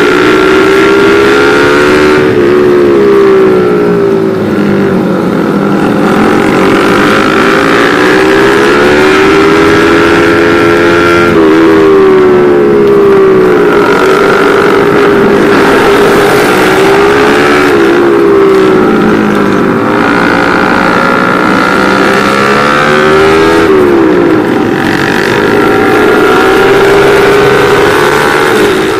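Suzuki motorcycle engine running hard on the road. Its pitch climbs and falls again and again as the rider accelerates, shifts and eases off, with sharp drops about 11 and 24 seconds in, over a steady rushing noise.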